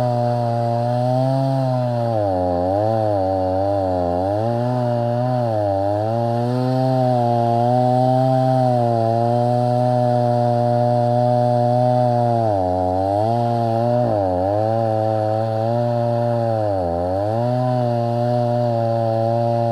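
Stihl MS 290 two-stroke chainsaw running at high revs under load in a cut, its pitch sagging and recovering several times as the full-chisel chain bites into dry, hard-cutting wood.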